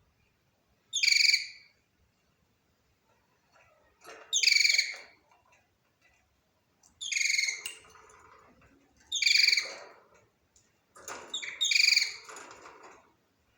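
Budgerigar calling: five loud, high chirps spaced about two to three seconds apart, with softer chatter between them in the second half.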